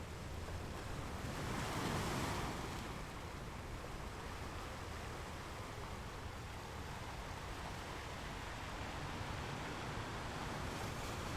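Sea waves breaking and washing on a shore, one wave swelling up about two seconds in, then a steady wash of surf.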